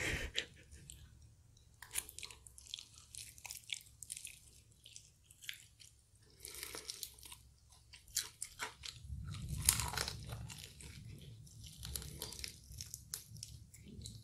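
Close-up chewing and biting of crispy fried chicken: irregular small crunches and crackles.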